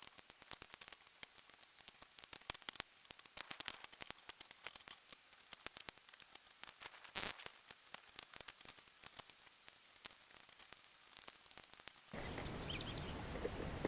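Sped-up sound of old staples being pried and pulled out of a plastic seat base: a dense, fast run of sharp clicks and scrapes. About twelve seconds in it cuts to steady outdoor background with crickets chirping.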